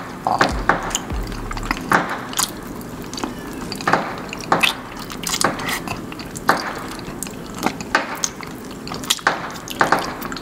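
Close-miked wet chewing and lip smacking of people eating soft, creamy durian flesh, with frequent irregular clicks and smacks of the mouth.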